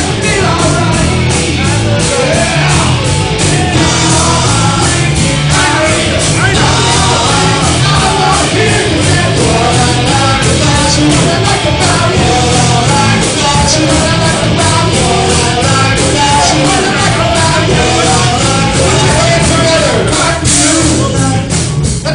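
Live rock band playing loud with a singer, the drums keeping a steady beat.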